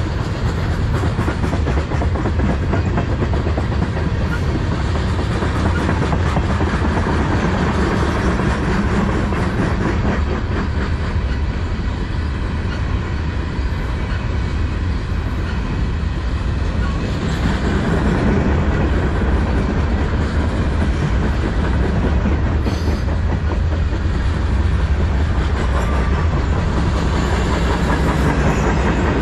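Freight cars of a manifest train rolling past close by, tank cars and then open-top cars: a steady loud rumble of steel wheels on the rails, with a constant patter of clicking and clacking from the wheels and couplings.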